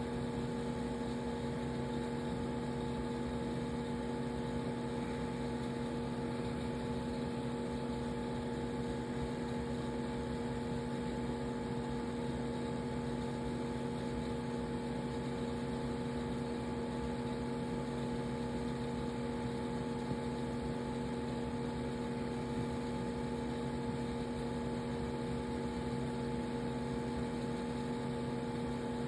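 Steady machine hum with several constant low tones under a light hiss, unchanging throughout.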